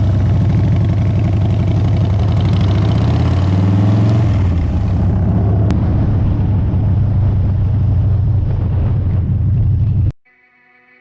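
Motorcycle engine running on the road. Its pitch climbs a little as it picks up speed in the first few seconds, then holds steady. The sound cuts off suddenly about a second before the end.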